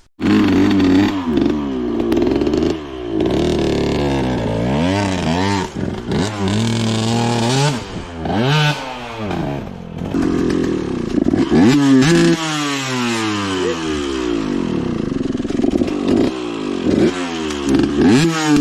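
Two-stroke dirt bike engine being revved hard, its pitch rising and falling over and over as the throttle is worked.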